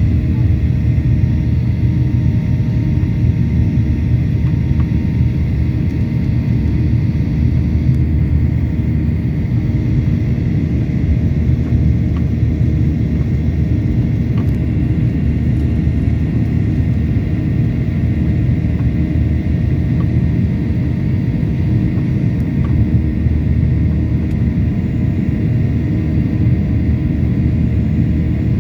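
Boeing 737-800's CFM56-7B turbofan engines running at a steady setting: a loud, even low rumble with a faint steady whine above it.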